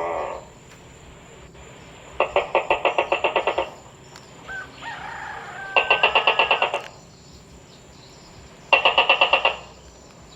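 Tokay gecko calls: three bursts of quick repeated notes, each about one to one and a half seconds long, with a brief wavering whistle between the first two bursts.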